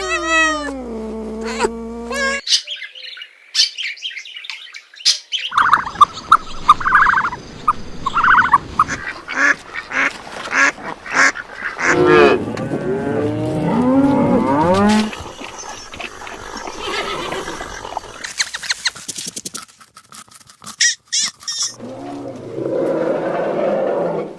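A run of different animal and bird calls, one after another, with several overlapping calls in the middle.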